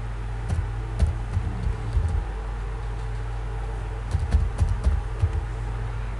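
Computer keyboard and mouse clicks: a few single clicks, then a quick run of keystrokes a little after four seconds. A steady low electrical hum lies under them.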